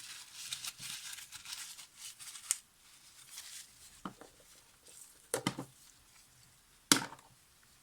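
Handling noise at a workbench: a few seconds of rustling and crinkling as things are cleared away, then a few sharp clicks and knocks of objects being set down, the loudest near the end.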